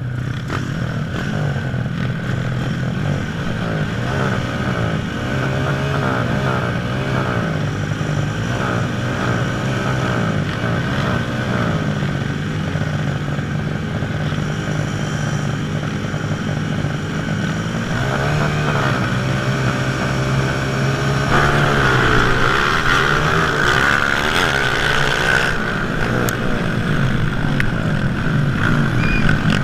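Several motocross bikes racing, their engines revving up and falling back over and over, several at once. It gets somewhat louder about two-thirds of the way through.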